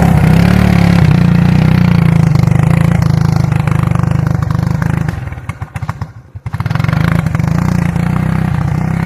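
Suzuki King Quad ATV's single-cylinder four-stroke engine running hard under load in deep snow. It drops away sharply about five seconds in, nearly to nothing, then picks back up about a second and a half later.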